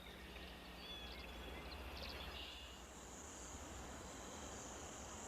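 Faint outdoor nature ambience: a steady high-pitched insect trill sets in a little before the middle, with a few short, faint chirps before it.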